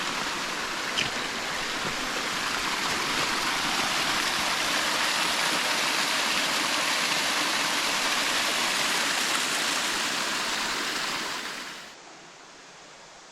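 Rushing water of a creek cascade, a steady rush that cuts off abruptly near the end.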